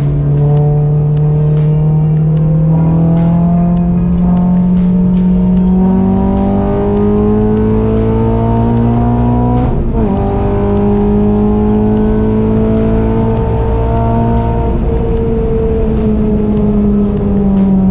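Renault Clio engine under hard acceleration on track, its pitch climbing steadily, with a quick gear change about ten seconds in, then climbing again before easing off near the end. Music with a steady beat plays underneath.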